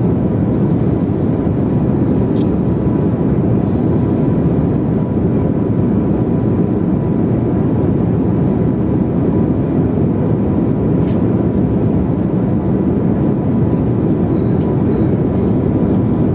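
Steady roar of an airliner cabin in flight, the even rush of engine and air noise with a faint steady tone above it and a couple of light clicks.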